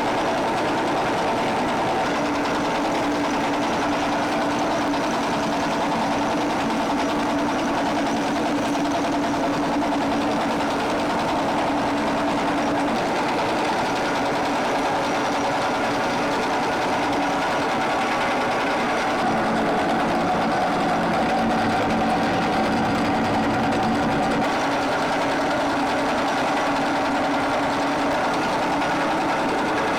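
Factory machinery running steadily: a continuous mechanical clatter with a steady hum that shifts slightly in pitch about two-thirds of the way through.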